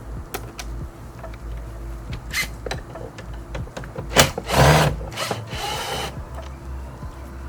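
Tool work on a car's interior door trim: scattered clicks and knocks, with a louder noisy burst about four to five seconds in and a shorter hissing one right after.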